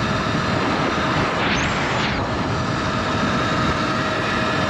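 Sur-Ron electric dirt bike ridden at road speed: wind rushing over the microphone with the electric motor's steady whine underneath, and a brief louder hiss about a second and a half in.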